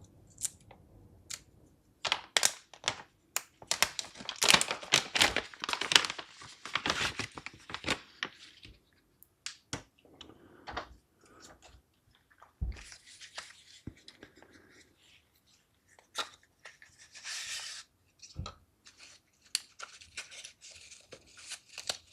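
Packaging being handled: crinkling and tearing rustles with quick clicks and taps, densest in the first several seconds, then a few short rustles later on.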